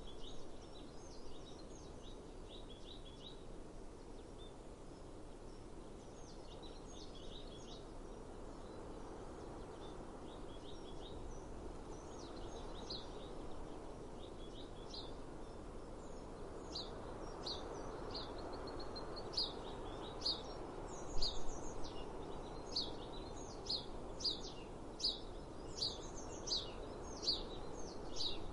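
Small songbirds calling with short, high notes, scattered clusters at first, then from about halfway an even run of repeated notes roughly twice a second. Under them lies a steady outdoor background hiss of breeze and ambience.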